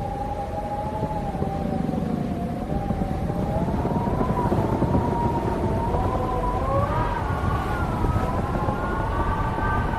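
Wind howling, a wavering whistle in several tones at once that drifts slowly higher in pitch, over a low rumble of gusting wind.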